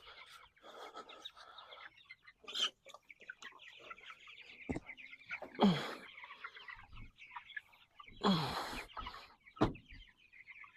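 A flock of meat chickens peeping and clucking, with a few louder sudden knocks and rasping noises in the middle and near the end.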